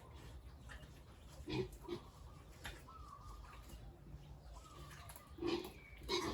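Pigs grunting: a short grunt about a second and a half in, then a couple more near the end.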